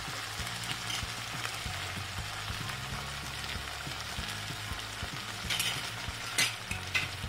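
Onions, ginger-garlic paste and sauces sizzling steadily in a nonstick wok over a gas flame, stirred with a spoon at the start, with a few sharp clicks about two-thirds of the way in.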